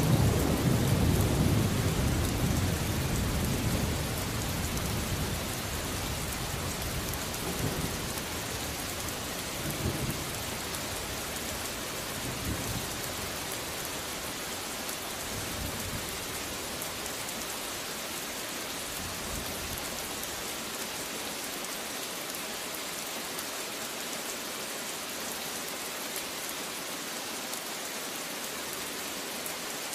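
Steady rain with rolling thunder: a loud low rumble at the start that fades over the first several seconds, a few fainter rumbles after it, then rain alone for the second half.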